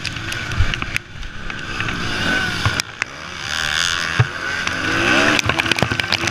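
Motocross bike engines revving on the track, their pitch rising and falling as the riders work the throttle, with scattered sharp clicks.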